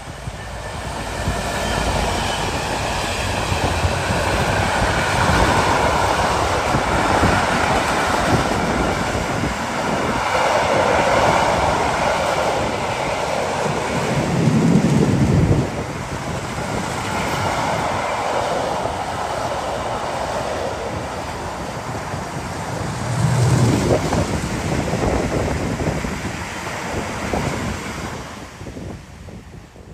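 Train running past on the line: a steady rolling noise of wheels on rail, with wind on the microphone. It swells with two louder low bumps, about halfway through and again later, and fades away near the end.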